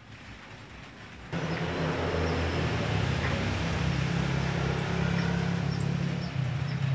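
A car's engine running with a steady low hum as it moves slowly close by, starting a little over a second in after a quieter opening.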